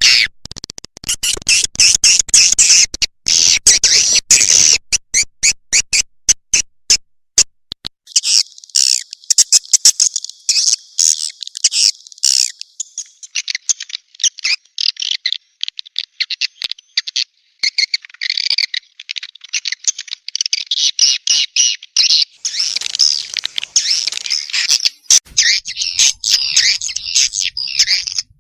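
Recorded edible-nest swiftlet calls: fast, high chirping twitters in dense runs, choppy with many short clicks for the first several seconds. This is a swiftlet-farming lure call, played to draw swiftlets into a nesting house.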